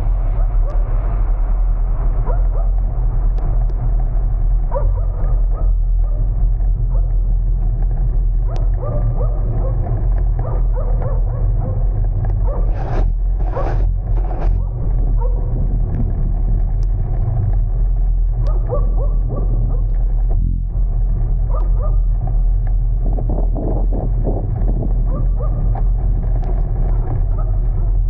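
A car driving, with a steady low rumble of engine and road noise and a muffled, busy mid-range over it.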